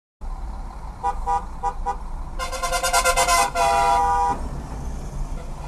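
Car horn: four short toots about a second in, then one long blast of nearly two seconds, over a steady low road rumble.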